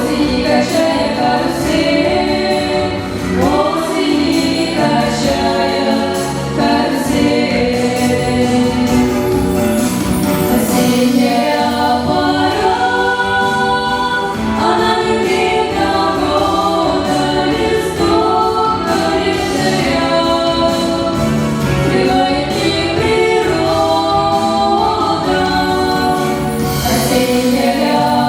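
A family group of several voices singing a song together, continuously and at a steady loudness.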